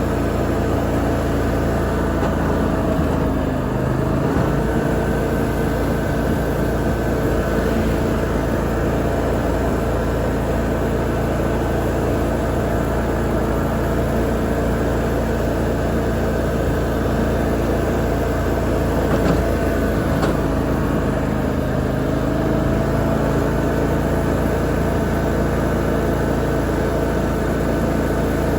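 Lawn mower engine running steadily while mowing, its pitch dipping briefly a few seconds in and again about two-thirds of the way through as the load changes.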